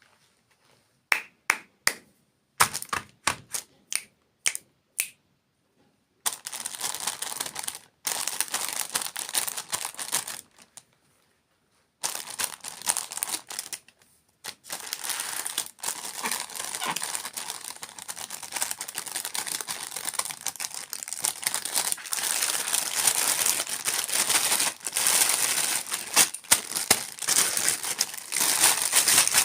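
Several separate sharp taps or clicks, then from about six seconds in a dense crinkling of packaging being handled and opened close to the microphone. The crinkling breaks off briefly twice.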